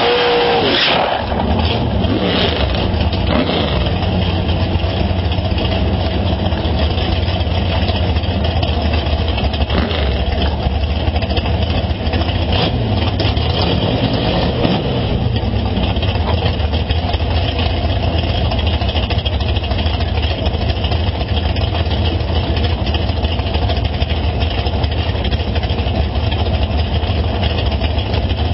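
Race car engine running steadily at idle, a loud, deep rumble that holds an even pitch throughout.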